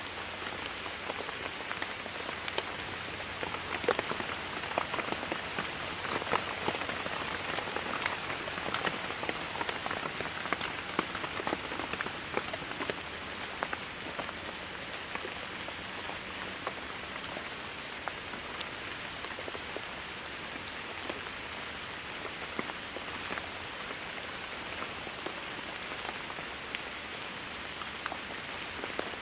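Steady rainfall with individual drops pattering on a surface, the drops heavier and more distinct in the first half before settling to an even hiss.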